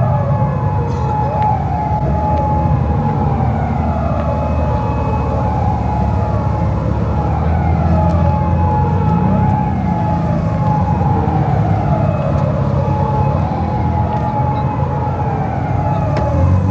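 Siren wailing, its pitch sweeping down again and again about every two seconds, with a steady tone alongside and a low vehicle engine rumble beneath.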